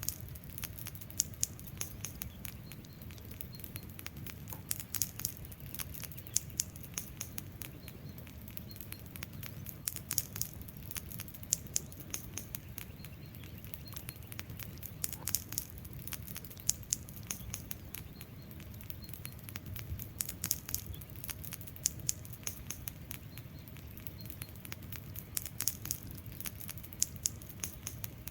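Wood fire burning: frequent sharp crackles and pops, often in quick clusters, over a steady low rumble of the flames.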